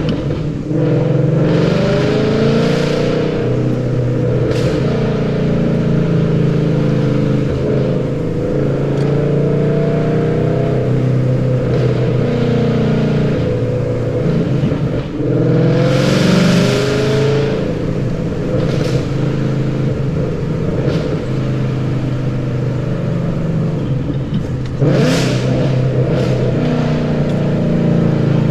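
S197 Ford Mustang GT's 5.0 V8 on a full exhaust (long-tube headers, X-pipe and Roush mufflers) being driven hard. Its pitch climbs and drops repeatedly as the revs rise and fall through the gears. A louder rasping burst comes about halfway through, and another near the end.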